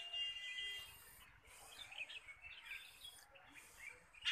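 Small birds chirping quietly over outdoor background noise, with a thin steady high tone at the start.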